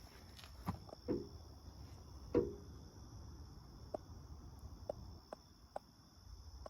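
Crickets chirring steadily, with a scattering of short, light knocks and clicks from handling parts; the loudest knock is about two and a half seconds in and rings briefly.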